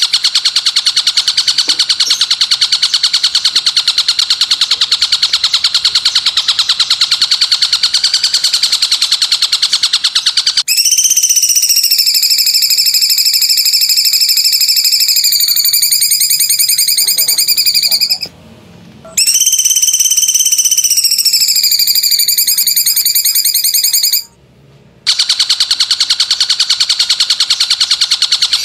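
Songbird recording for song training: a fast, continuous buzzing trill, then from about ten seconds in a high, steady trilled call that bends slightly in pitch. The call is cut off abruptly twice by short silences before the buzzing trill comes back.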